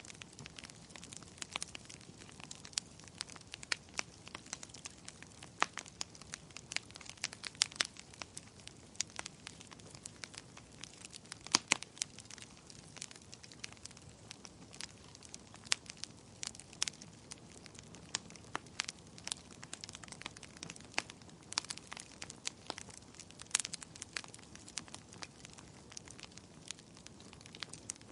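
Wood fire crackling in a fireplace: irregular sharp pops and snaps, several a second, some louder than others, over a faint steady hiss.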